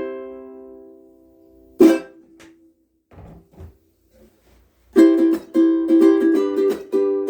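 KoAloha ukulele being strummed. A chord rings and fades over the first two seconds, one more strum follows, and after a short pause with faint handling sounds, brisk rhythmic strumming starts again about five seconds in.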